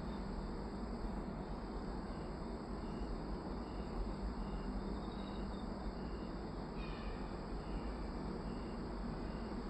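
Frogs calling: a short high-pitched call repeated a little under twice a second, with another brief call about seven seconds in, over a steady background hiss.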